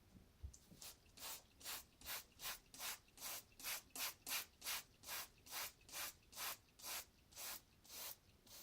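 Even back-and-forth rubbing strokes by hand, about two and a half a second, as in sanding or scrubbing a surface; loudest around the middle.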